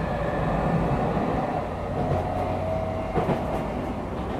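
Tokyu 9000-series electric commuter train running, heard from inside the passenger car as it nears a station stop. A steady rumble of wheels on rail runs throughout, with a steady whine that comes in about halfway and a couple of clacks near three seconds in.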